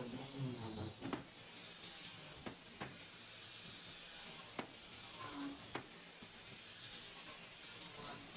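A few sharp light taps or knocks, about five, spaced irregularly over a steady hiss.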